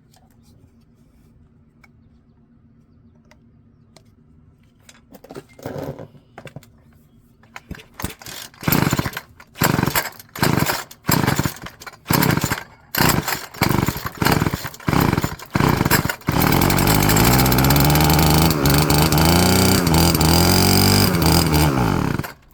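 Stihl FS36 string trimmer's small two-stroke engine being pull-started: a series of recoil pulls, about one a second, each with a brief sputter, then it catches and runs for about six seconds, its speed rising and falling, before cutting out suddenly. It is running on fuel added by hand, and the owner suspects the fuel lines are why it won't keep running on its own.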